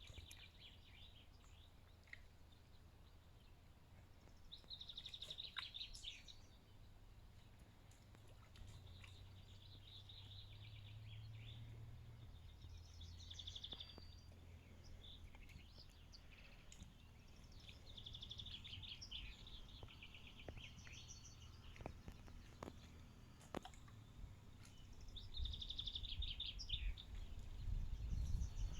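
Songbirds singing faintly, a short trilled phrase repeated every few seconds, over a low rumble that swells near the end, with a few sharp clicks.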